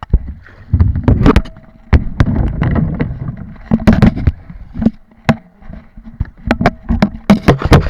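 Kayak paddling: a run of loud, irregular knocks and thumps, with low rumbling in between.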